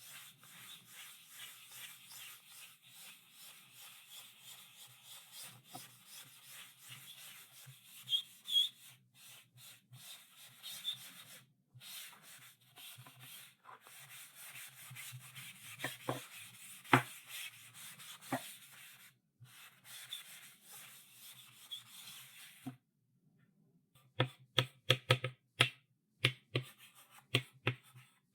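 Chalk writing on a blackboard: a steady dry scratching with a few sharper clicks. After a short pause near the end, it turns to a run of quick sharp taps of chalk on the board.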